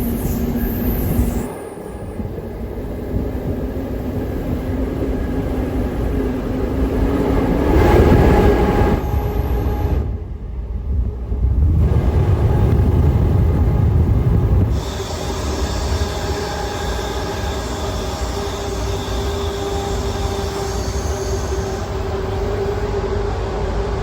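Passenger train running on the rails: continuous rumble and running noise that swells and dips several times. From about fifteen seconds in, thin high-pitched wheel squeal rides over it.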